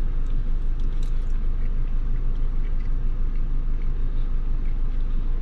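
Steady low rumble of a running motor-vehicle engine, even in level throughout, with a few faint small clicks above it.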